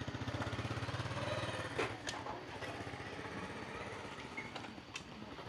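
Small motorbike engine running, louder for the first two seconds and then fading as it moves off, with a few sharp clicks over it.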